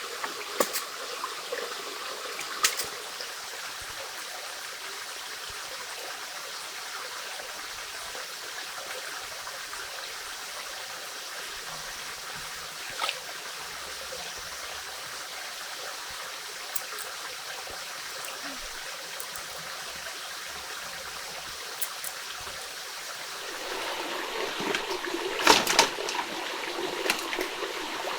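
Steady running water of a stream, with a few sharp clicks and knocks here and there. A louder cluster of knocks comes near the end.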